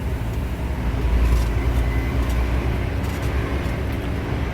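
Semi truck's diesel engine running steadily in 7th gear with road noise, heard from inside the cab as a constant low rumble.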